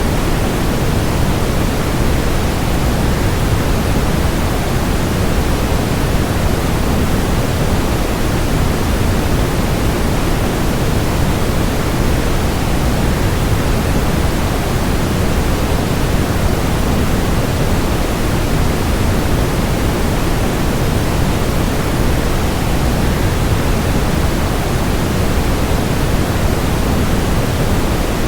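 Waterfall rushing as a steady, even wash of noise, heavier in the low end, with no changes or separate sounds.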